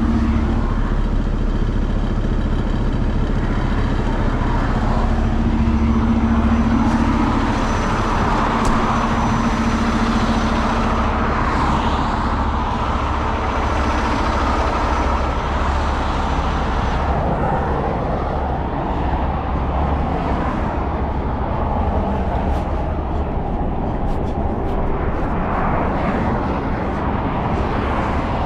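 Heavy truck engine running steadily with a low drone.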